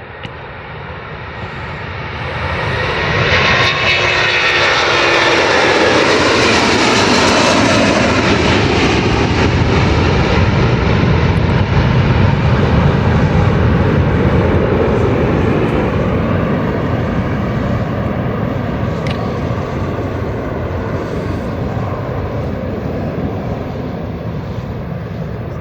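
Airbus A330-300's twin Rolls-Royce Trent 700 turbofans at takeoff thrust, building up about two seconds in and passing loudest with a falling pitch around four seconds in. A long, loud jet rumble follows and slowly fades.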